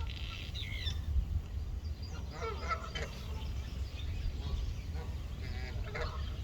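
Birds calling under a bridge in short clusters a few seconds apart, over a steady low rumble.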